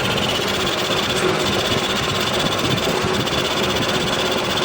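Workshop machinery running steadily during shaft repair: a dense, rapid mechanical rattle with a steady high whine over it.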